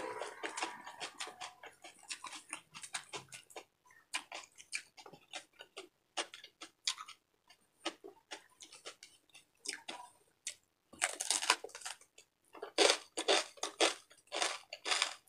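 Close-up crunching and chewing of crispy deep-fried pork bagnet: irregular crackly clicks, growing louder and denser in the last few seconds.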